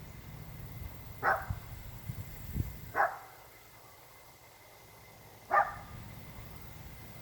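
A dog barking three times, single sharp barks spaced a couple of seconds apart, with a few soft low knocks between the first two barks.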